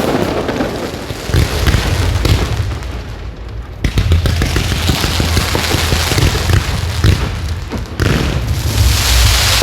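Fireworks display: deep booms of bursting shells over a low rumble, with rapid crackling between them. Fresh volleys set in about a second in, near four seconds and near eight seconds.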